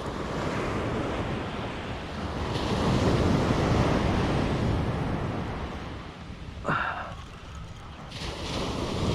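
Surf washing on the beach, with wind buffeting the microphone. The wash swells and fades in the middle, and a brief, sharper sound cuts in about seven seconds in.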